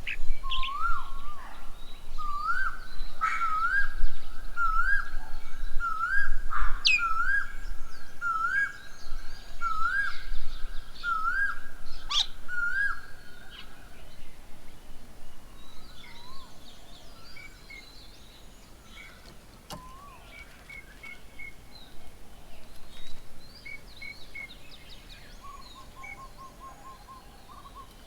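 Wild birds calling. For the first half one bird repeats a rising note about once every 0.8 seconds, with other birds chirping over it. After that the calls turn quieter and more scattered, with a short quick run of notes near the end.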